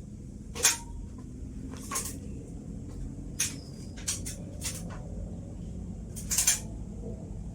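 HTC FC06-600 mini ceiling fan (600 mm blades, 12 W) running with a steady low hum and a faint high hiss. About seven sharp clicks and knocks sound over it, the loudest about half a second in and again near the end.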